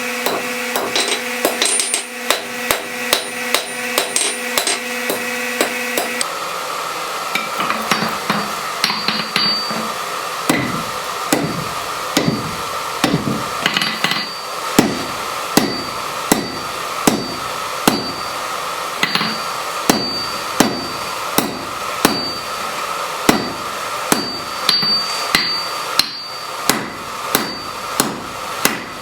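Blacksmith's hammer striking metal on an anvil in a steady run of blows, quicker and lighter for the first few seconds, then about one to two a second. A ringing tone carries on between the strikes.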